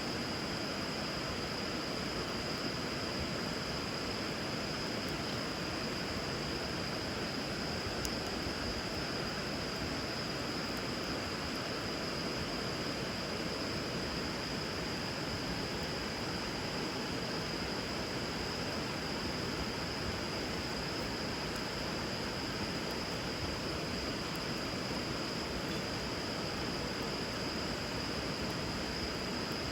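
River water rushing steadily, with a constant high-pitched tone above it.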